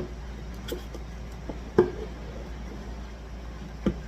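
A few light knocks and taps as a hard resin casting is flexed and worked loose from a silicone mold, the loudest a little under two seconds in and another near the end.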